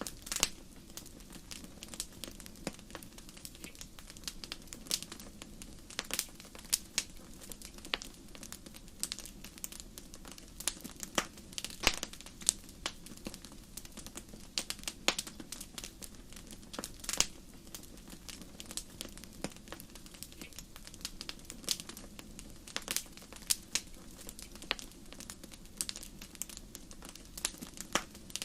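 Wood fire crackling in a fireplace: irregular sharp pops and snaps, a few to several a second, over a soft steady low background.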